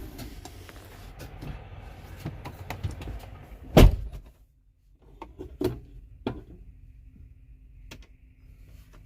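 Sounds from inside a truck cab with the ignition switched on and the engine not running: a single loud thunk about four seconds in, several lighter clicks after it, and a faint steady electrical hum that comes on about halfway through.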